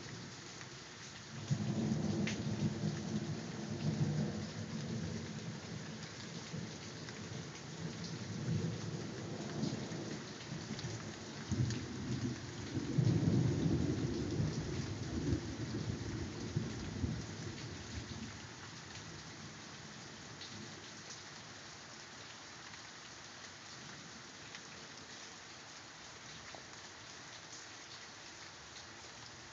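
Rolling thunder over steady rain. Long low rumbles build about a second and a half in, swell again strongest around twelve to fifteen seconds, and die away by about eighteen seconds, leaving only the rain's steady hiss.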